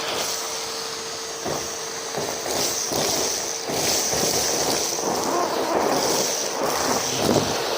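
Numatic James cylinder vacuum cleaner running with a steady rushing whoosh and a faint constant whine, broken by irregular crackling as debris is sucked up.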